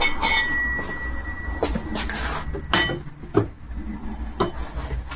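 Pieces of scrap metal being handled, clinking and knocking against each other: one piece rings with a clear high note for about the first two seconds, then several separate knocks follow.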